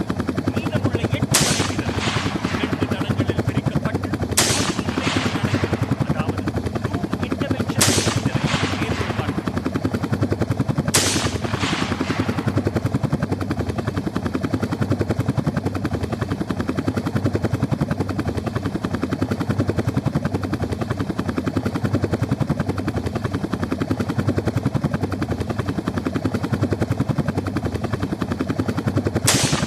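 Helicopter rotor chopping steadily in a fast, even beat. Five short, sharp bursts of hiss cut across it: four in the first twelve seconds and one at the very end.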